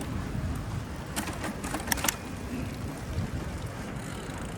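Wind rumbling on the microphone as the bicycle rides along, with a handful of sharp clicks or rattles between about one and two seconds in.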